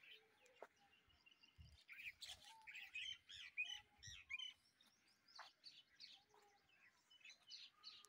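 Small birds chirping faintly: a quick run of short, high chirps, busiest from about two to four seconds in.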